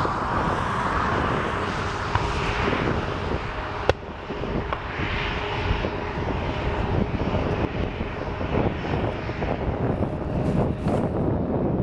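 Jet airliner engines running, a steady rushing noise, with one sharp click about four seconds in.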